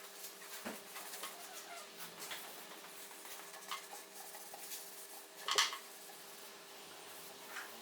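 Scattered light clicks and taps, one louder knock about halfway through, over a faint steady hum.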